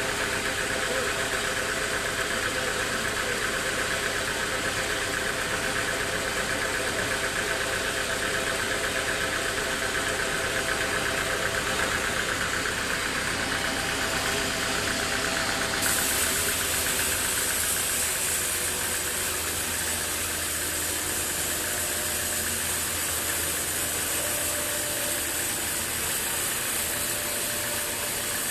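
Sawmill machinery running steadily: a mechanical drone with engine-like hum and hiss. A little over halfway through, the sound changes suddenly, with a higher hiss added and the low hum shifting.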